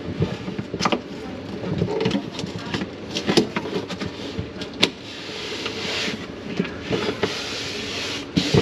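Handling noises from hand work on a kitchen cabinet: scattered clicks and knocks with rubbing, and a stretch of hiss about five seconds in.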